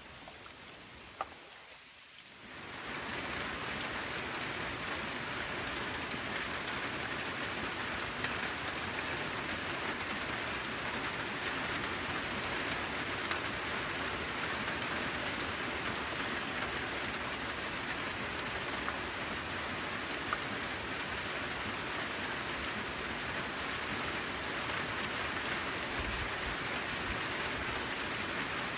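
Steady, heavy rainfall. It opens quieter, with a faint high steady tone, then swells into full, dense rain about two and a half seconds in.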